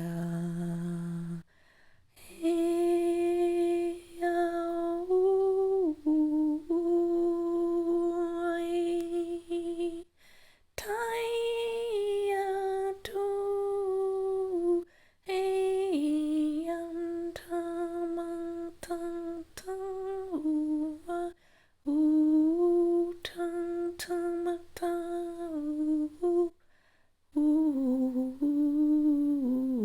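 A woman's solo voice toning wordless 'light language' syllables such as 'hey' in long, humming held notes, stepping up and down in pitch with short breaks for breath. Near the end the note wavers and slides downward.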